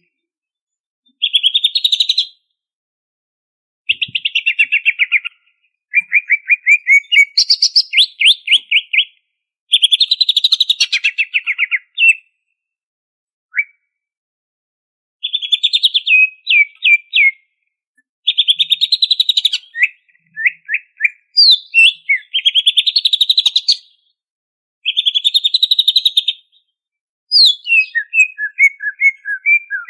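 Cucak ijo (green leafbird) singing loud, fast chattering phrases of rapidly repeated notes, each phrase a second or two long with short pauses between, in a varied song that takes in mimicked phrases (isian).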